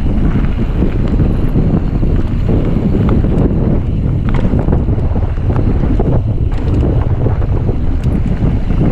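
Wind buffeting the microphone of a mountain biker riding a trail at speed, over a steady rumble of tyres on dirt, with frequent small rattles and knocks from the bike.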